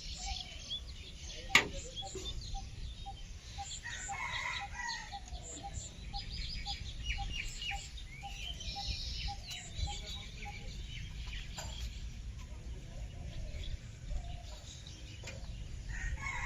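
Birds calling and chirping, with a run of short, evenly spaced pips over the first half. There is one sharp knock about a second and a half in.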